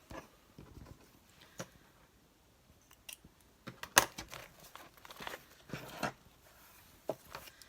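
Paper being handled at a craft table: scattered rustles, crinkles and small clicks, with one sharp tap about four seconds in.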